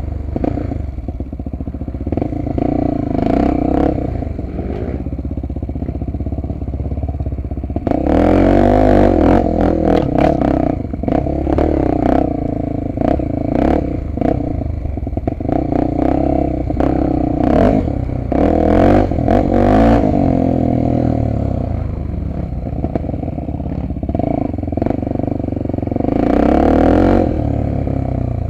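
Honda XR250 Tornado's single-cylinder four-stroke engine running under way off-road, its pitch rising and falling with the throttle, with clattering knocks from the bike over rough ground.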